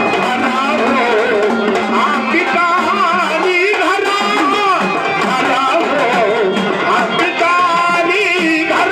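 Marathi folk music: a dholki drum plays under a melody line that bends and wavers in pitch.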